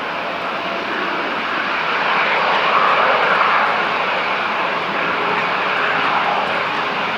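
GE90-115B turbofans of a Boeing 777-300ER running at high power, a steady jet rush that swells louder about three seconds in and then eases a little.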